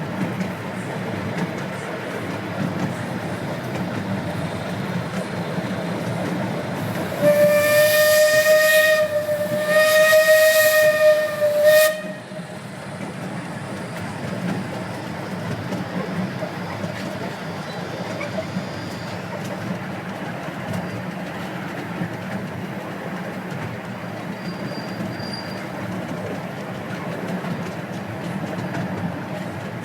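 Steam whistle of a 12-inch-gauge steam locomotive sounding twice, a blast of about two seconds then a slightly longer one, over the steady noise of the miniature train running.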